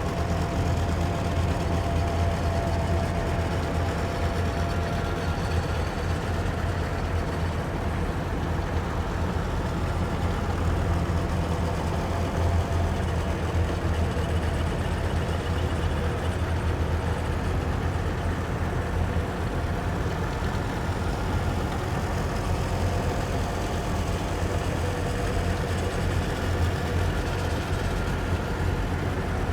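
Engines of heavy military vehicles running together, a steady low rumble with no single vehicle standing out.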